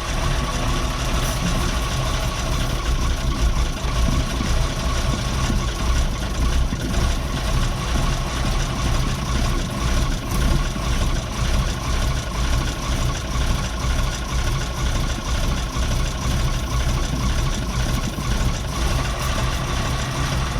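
Perkins V8 540 diesel engine of a Leyland Mastiff truck running steadily at idle, heard from inside the cab, with no throttle applied.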